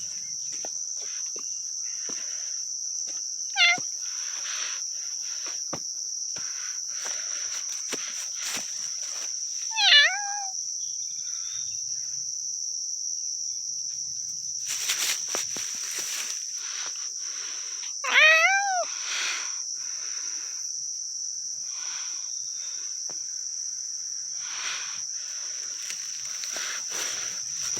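Crickets chirring in a steady, high, unbroken trill. Three short meow-like calls cut through it, about four, ten and eighteen seconds in, with scattered light rustling and steps.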